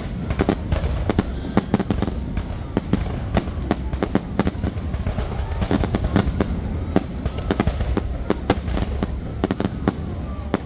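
Fireworks display: a rapid, irregular string of sharp cracks and pops, several a second, over a steady low rumble.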